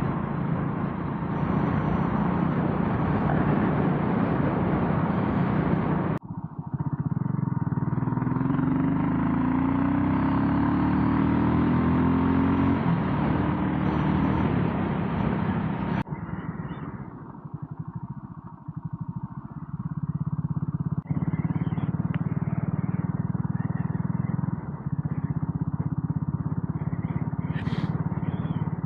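BSA Gold Star 650 single-cylinder motorcycle engine running on the road, with wind noise on the microphone, in several spliced clips. In one the engine note rises as the bike accelerates; in another it drops back lower and quieter for a few seconds.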